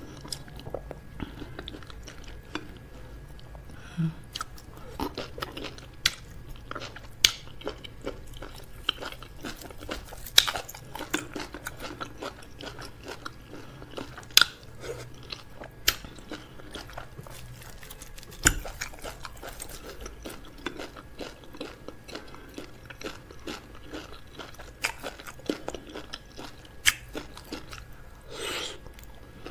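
Close-miked eating of fufu, okro soup and crab: steady chewing and biting, with a sharp crunch or click every few seconds.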